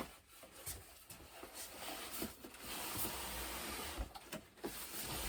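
Cardboard box packaging being handled as a model airplane is slid out of it: a few light knocks, then long stretches of cardboard scraping and rubbing about halfway through and again near the end.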